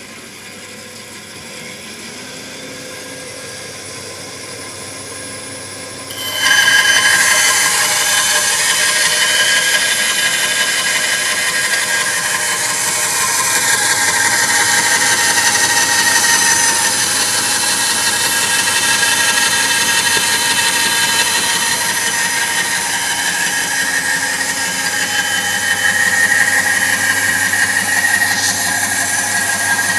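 Small electric motor of a miniature sawmill running with a steady hum, then about six seconds in a sudden much louder high whine and hiss as its saw runs.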